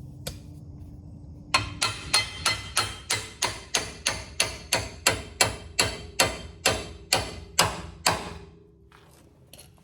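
A hammer beats on a steel front-suspension part to pop a joint loose: about twenty quick, sharp blows at a steady rate of about three a second, stopping near the end.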